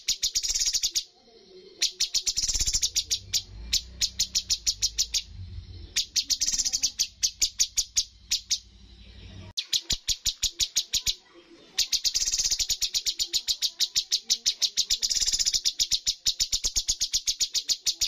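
Cucak cungkok songbird calling in long rapid trains of sharp, high repeated notes, several a second, broken by short pauses. A low hum runs under the calls for several seconds in the middle.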